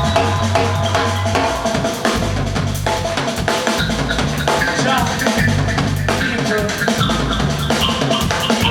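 Live reggae band playing an instrumental passage: a drum kit beating out kick, snare and rimshot hits over a steady bass line.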